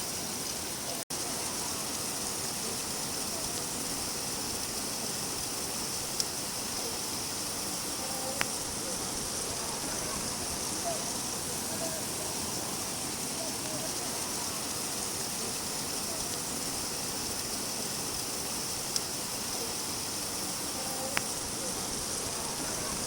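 Steady rain, an even hiss, with a few sharper single drips standing out now and then. The sound drops out for an instant about a second in.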